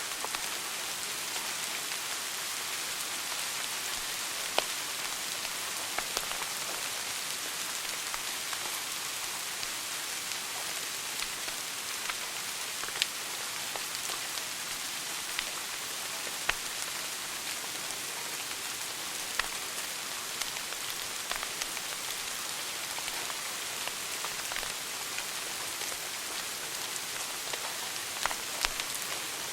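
Wood fire burning in a fireplace: a steady hissing bed with sharp crackles and pops scattered irregularly every few seconds.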